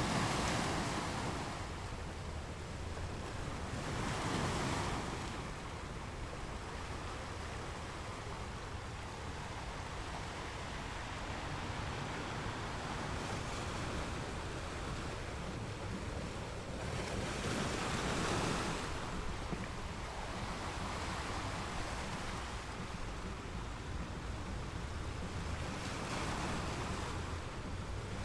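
Sea waves: a continuous rush of surf that swells up as waves break, about four times, then eases back between them.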